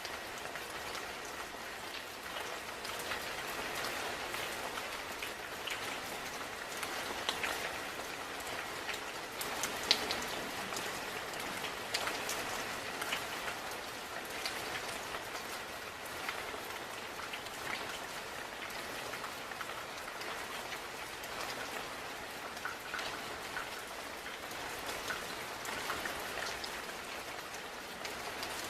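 Steady rain falling, with many individual drops landing close by as sharp ticks; one louder drop hits about ten seconds in.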